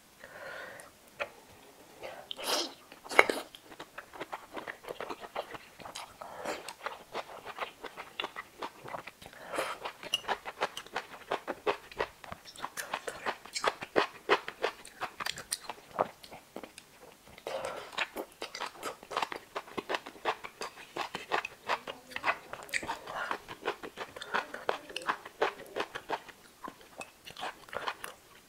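Close-miked wet chewing and mouth smacking of a person eating steamed scallops with glass noodles, a dense, irregular run of short clicks with a few louder bites.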